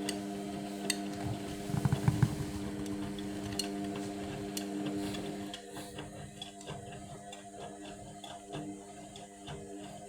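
Indesit washing machine in its Cotton 60 main wash: the drum motor runs with a steady hum, with a cluster of heavy thuds from the bedding load about two seconds in. About halfway through the motor stops and light ticking clicks remain as the drum pauses.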